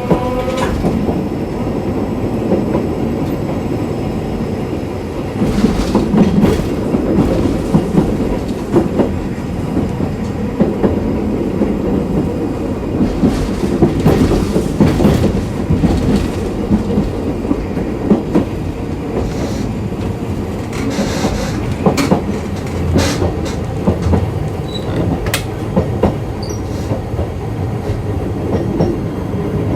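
Inside a Hiroshima Electric Railway 3100-series tram car with nose-suspended (tsurikake) traction motors, running at speed: the motor whine rises briefly and stops just after the start, then a steady rumble of wheels on rail continues with irregular clicks and clacks over rail joints.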